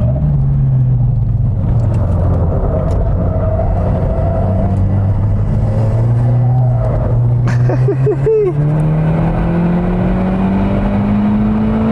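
SEAT Leon Cupra's turbocharged four-cylinder engine running under load on track. Its pitch holds fairly level, then rises steadily over the last few seconds as the car accelerates.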